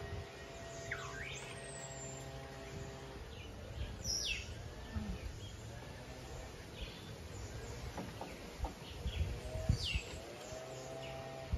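Wild birds calling: a few clear whistles that sweep down in pitch, about a second in, around four seconds in and near the end, with short chirps in between over a faint outdoor background.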